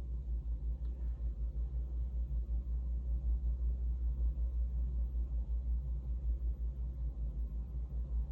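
A low, steady rumble that pulses unevenly several times a second.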